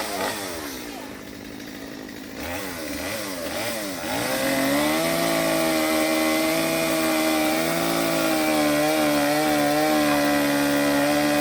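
Chainsaw engine revving up and down for the first few seconds, then about four seconds in it holds a steady high speed, as when cutting.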